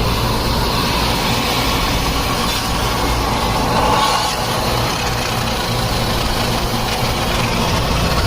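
Steady machine hum and whir, with a low drone underneath that holds level throughout.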